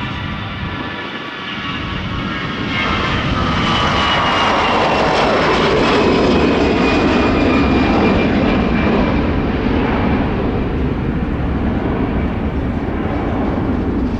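Jet airliner taking off at takeoff thrust and passing by, growing louder about three seconds in, with its engine whine sliding slowly down in pitch as it goes past.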